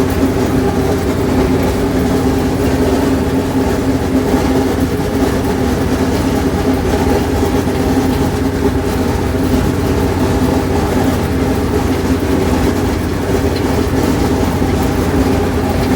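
Allis-Chalmers 7000 tractor's diesel engine running steadily while working a hay mower, the two making one loud, unchanging mechanical din.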